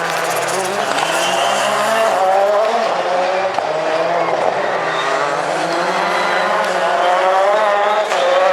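Rallycross Supercar engines at full throttle, the pitch rising and dropping back several times as the cars shift up through the gears.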